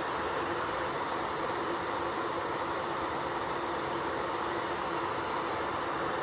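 Electric nail drill running steadily with a constant whir and hiss, filing off old gel polish.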